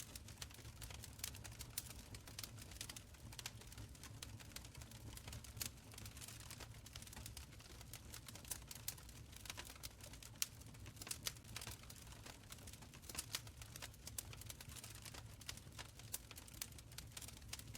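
Open fire crackling in a stone fireplace: a steady, faint run of small sharp pops and snaps over a low rumble, with one louder pop about ten seconds in.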